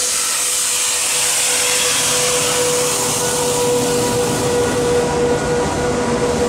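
SS8 electric locomotive hauling a passenger train through a station at speed without stopping: a steady rushing, whirring noise with a hum. The noise jumps up sharply as the locomotive draws level at the start, then carries on as the coaches go by.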